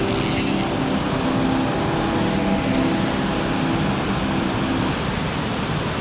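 Steady rushing of creek water, a loud even hiss and rumble with no breaks.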